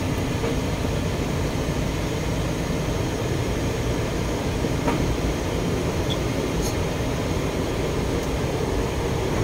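Steady road and engine noise heard from inside a moving car's cabin, a low even rumble with a couple of faint clicks about five and seven seconds in.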